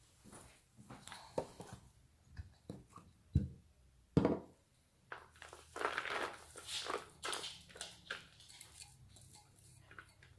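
Pet bird pecking at and crunching chopped fresh vegetables: irregular light clicks, taps and crunches, a few louder ones near the start and a busier stretch in the middle.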